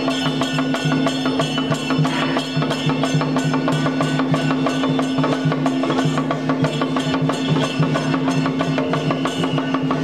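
Temple procession music: fast, even percussion strokes, about four a second, over a steady held tone.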